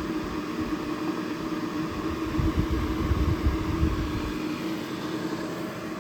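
EcoFlow Delta Max 2000 portable power station running under load with a steady fan hum. A low rumble swells from about two to four and a half seconds in.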